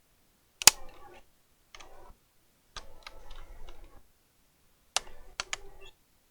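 Sharp clicks and rattling from the plastic casing and parts of a laptop being handled and taken apart, in short bursts with pauses between; the loudest click comes under a second in, and a quick run of clicks follows about five seconds in.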